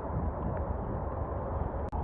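Steady rain at a lake, heard as a dense, even hiss with a heavy low rumble. The sound cuts out for an instant near the end.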